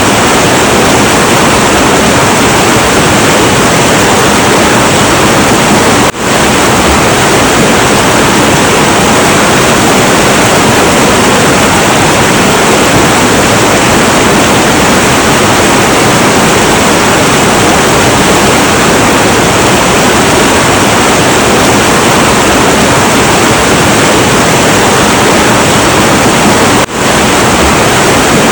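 Heavy, turbulent river water rushing in a loud, steady roar. The sound drops out sharply for a moment twice, about six seconds in and near the end, then swells straight back.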